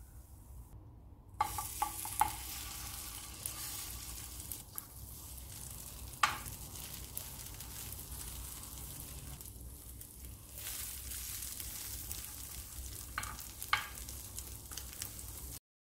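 Poha-and-egg batter sizzling on a hot nonstick tawa, starting about a second and a half in, with a few light clicks and scrapes of a steel spoon as the batter is spread into a round.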